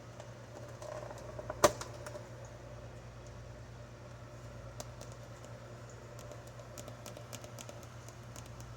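Small objects being handled: one sharp click a little under two seconds in, then a scatter of light clicks and ticks, over a steady low hum.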